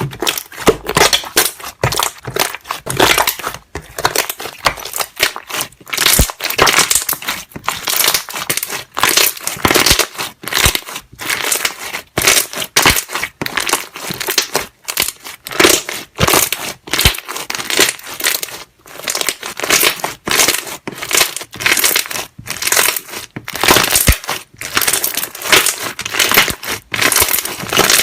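Slime being squeezed and pressed by hand, trapped air bubbles popping in rapid, irregular crackles and squelches.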